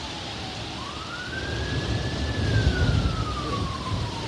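A siren wailing: its pitch climbs quickly and then slides slowly back down, about once every four seconds. A low rumble of thunder swells under it in the middle.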